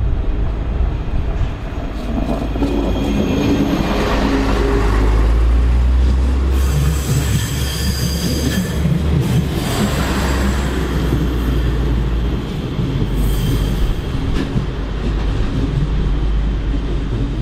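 Train moving along a station track: a steady low rumble, with high-pitched squealing from the steel wheels in two stretches, one lasting a few seconds about a third of the way in and a shorter one about three-quarters through.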